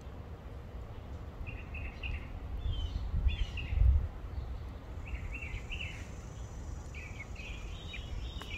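Small birds chirping, with clusters of short high notes coming again and again. Under them runs a low steady rumble that swells briefly about four seconds in.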